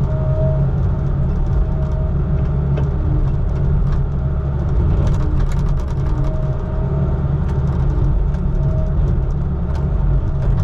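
Heavy vehicle engine running steadily, a constant low drone heard from inside the cab, with a cluster of faint rattling clicks about halfway through.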